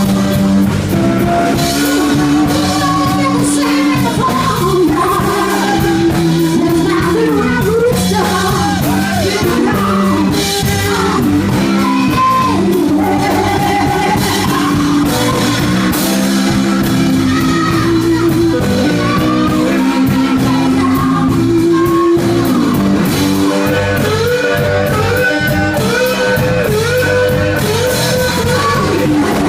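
Live blues band playing: electric guitar over bass and drums, with the lead guitar playing bending, sliding lines.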